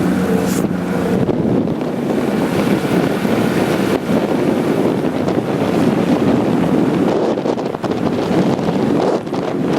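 Wind buffeting the microphone on a moving vessel, over the low, steady running of the boat's engine.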